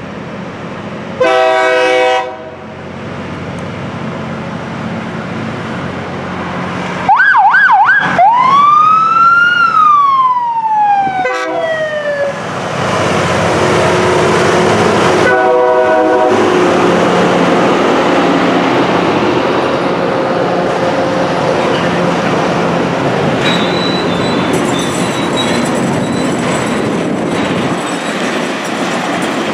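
A rail grinder train's horn sounds a short blast, and a siren warbles and then wails with a long falling pitch. The horn sounds again as the grinder train passes close by in a loud, steady din of engines and wheels.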